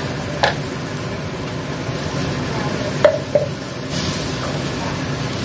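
Chili spice paste sizzling as it fries in a wok while a metal spatula stirs it, with short sharp clinks of the spatula against the pan about half a second in and twice around three seconds in.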